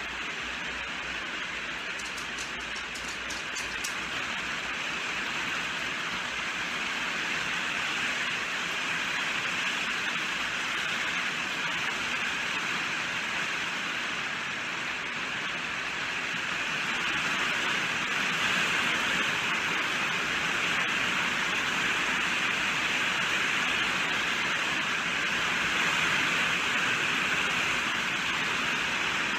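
Steady heavy rainfall, a dense even hiss of drops that swells a little louder partway through.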